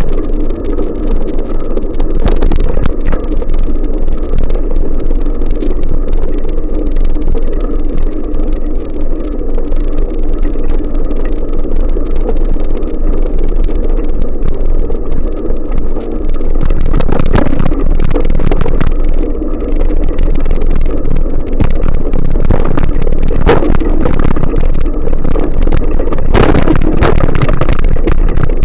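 Wind buffeting the microphone of a camera on a moving bicycle: a steady, loud rumbling roar. It gets louder and gustier a little past halfway, with a few sharp gusts near the end.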